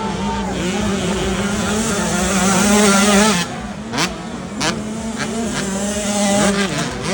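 Motocross dirt bike engines revving, rising and falling in pitch. One grows loudest about three seconds in and cuts off abruptly just after, followed by two sharp clicks and quieter engines.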